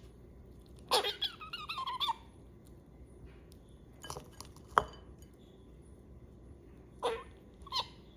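Pet squirrel making squeaky vocalizations while eating. There is a wavering high squeal lasting about a second, starting about a second in, a few sharp clicks around four to five seconds in, then two short squeaks near the end.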